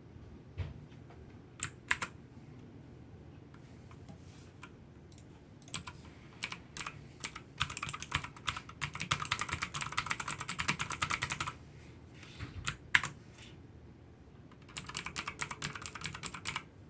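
Hansung GTune MKF14S mechanical keyboard with clicky blue switches being typed on. First a few separate keystrokes, then fast typing for about four seconds. A few more strokes follow, then another quick burst near the end.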